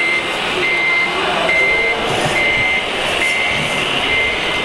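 Reversing alarm of a radio-controlled truck beeping: a single high tone repeating about once a second, over a steady noisy background.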